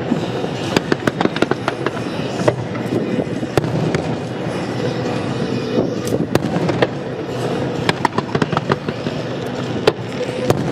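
Aerial firework shells bursting in a dense, irregular volley: many sharp bangs and crackles over a continuous rumble.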